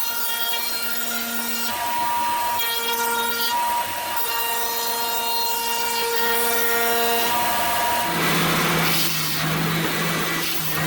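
Electric router running with a 45-degree chamfer bit, a steady whine with short dips as it cuts the sharp edges off small wooden pieces. About eight seconds in, a noisier, lower-pitched machine sound takes over.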